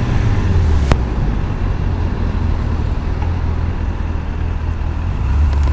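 Suzuki GSF650 Bandit's inline-four engine running steadily at low speed under road and wind noise, with a single sharp click about a second in. The engine note grows stronger near the end.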